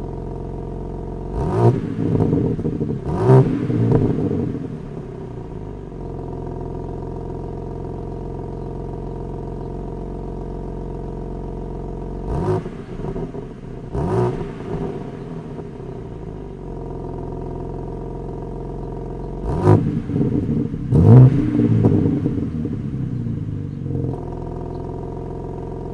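BMW M3 G80's S58 3.0-litre twin-turbo inline-six, stock exhaust with particulate filter, idling steadily and blipped twice in quick succession three times over, dropping back to idle after each pair, heard from outside the car.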